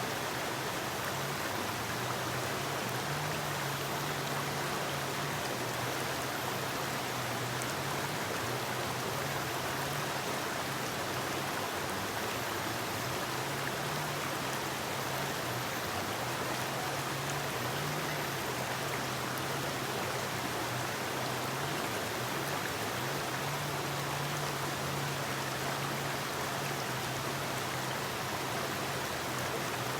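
Forest river flowing steadily, an even rush of running water. A low hum comes and goes beneath it.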